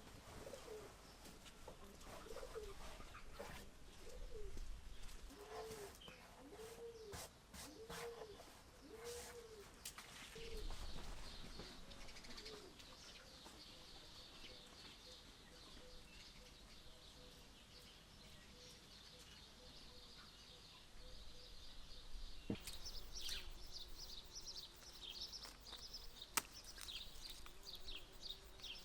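Birdsong: a dove cooing in a run of short low hoots, about one a second, then small birds chirping high and busily, with two sharp clicks near the end.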